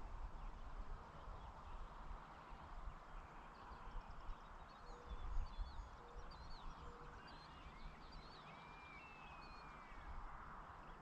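Rural evening ambience: a steady hiss and low wind rumble, with birds chirping from a few seconds in and one long falling whistled note near the end. A few short low hoots or tones sound in the middle.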